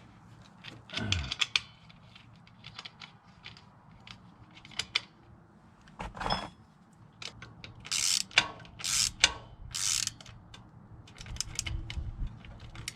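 Hand tools working on a fitting: scattered clicks and metallic knocks, with a few short bursts of ratcheting as something is tightened.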